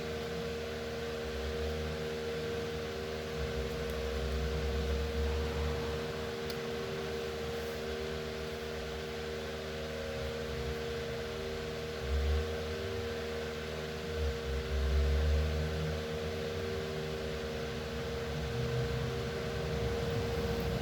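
Electric fan running steadily, a constant hum with a whooshing hiss, with a few dull low bumps a few seconds in and again around twelve and fifteen seconds in.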